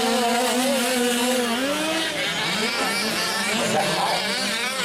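Several 5th-scale gas RC trucks' small two-stroke engines buzzing around the track, their overlapping pitches rising and falling as the drivers work the throttle.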